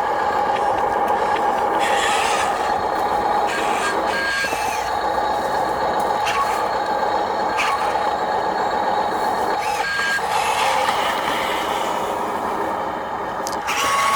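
Electric motors and gearboxes of radio-controlled construction models whining steadily, breaking off briefly twice, with a couple of short high beeps.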